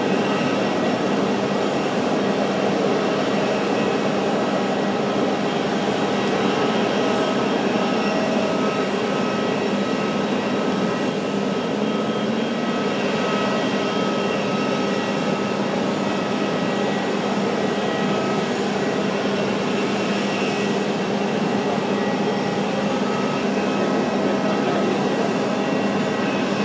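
Jet airliner engines running, heard as a steady rush with a few faint steady whines that neither rise nor fall.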